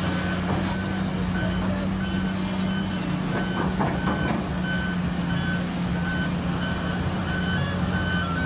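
Back-up alarm on heavy construction machinery beeping repeatedly, about twice a second, over the steady running of a diesel engine.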